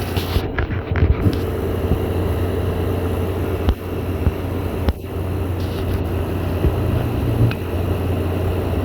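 Window air conditioners running: a steady low hum with the rush of their fans, and a few light knocks.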